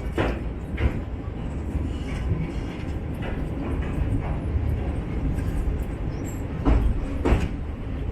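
Express train running on the rails: a steady low rumble, with pairs of wheel clacks over rail joints about a second in and again near the end.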